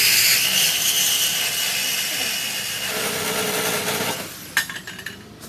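Power saw cutting through the steel exhaust pipe to take out a resonator, running about four and a half seconds and then stopping.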